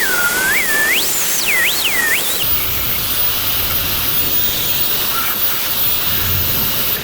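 Electric arc welding on steel hinges: a steady, loud, hissing sizzle from the arc. A whistle-like tone slides up and down over it during the first couple of seconds.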